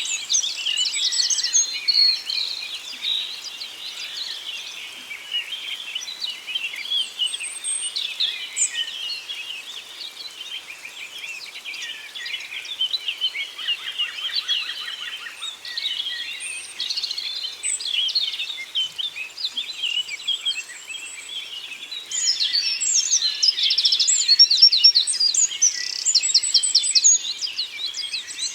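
Forest birdsong: several birds singing and calling at once in a dense chorus of chirps and trills, growing louder and busier over the last few seconds.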